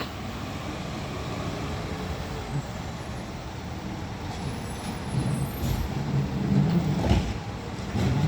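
Heil Rapid Rail automated side-loader garbage truck running, its engine getting louder about five seconds in, with a brief sharp noise near the end.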